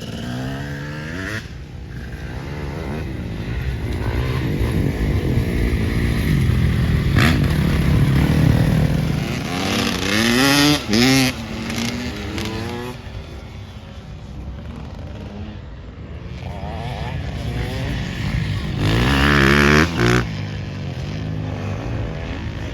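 Off-road motocross bikes' engines running on the track, their pitch rising and falling with the throttle. They build to two loud peaks, about ten and twenty seconds in, each cut off sharply for a moment as the throttle closes.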